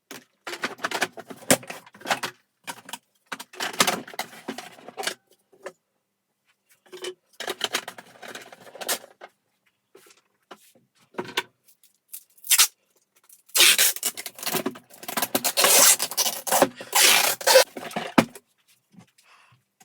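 Hands handling and working on vacuum cleaner parts: irregular rubbing and scraping in bursts, with a few sharp clicks, the longest and loudest stretch of rubbing about two-thirds of the way through. The vacuum cleaner's motor is not running.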